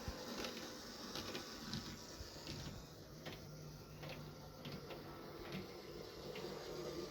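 N gauge model train running along the track: a faint steady hum with scattered light clicks, irregular and about one or two a second.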